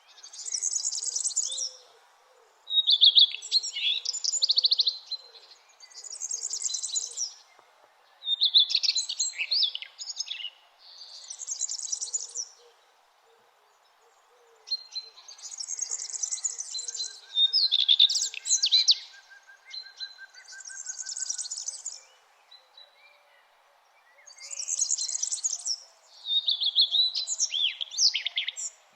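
A songbird singing in short repeated phrases every two to three seconds, with brief pauses: a high, fast trill alternates with a lower, busier phrase of rapid chirps. A faint steady hiss sits underneath.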